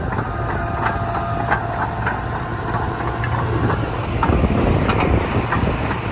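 Heavy diesel engine of earthmoving machinery running steadily, with scattered sharp metallic clanks and knocks over it.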